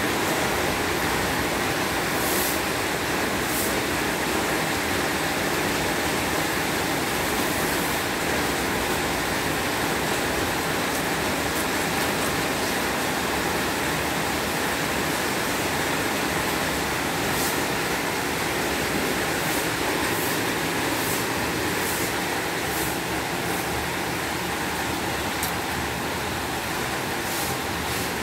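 Heavy downpour: a steady, even rush of rain, with a few faint ticks on top.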